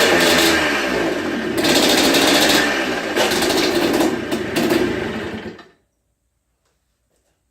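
Yamaha Blaster's single-cylinder two-stroke engine running and revving unevenly, its pitch rising and falling, a little flooded after sitting unstarted for months. The sound cuts off suddenly about five and a half seconds in.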